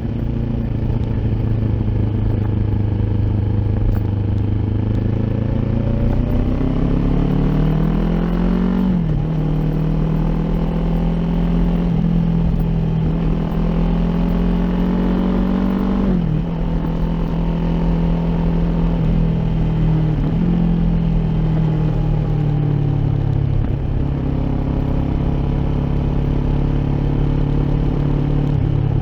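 Kawasaki Ninja 400's parallel-twin engine through an Akrapovic exhaust while riding: the revs climb for about nine seconds, then drop sharply at gear changes about nine, sixteen and twenty seconds in, each time rising again, before settling lower and steadier near the end.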